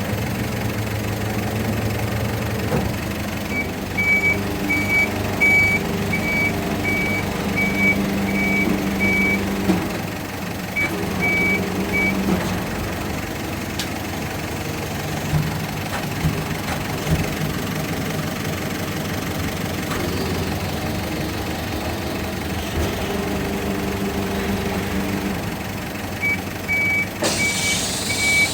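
Rotary-plate garbage truck running its packing mechanism: the engine and hydraulics run steadily with shifting machine tones, while a high warning beep repeats about twice a second in a few spells.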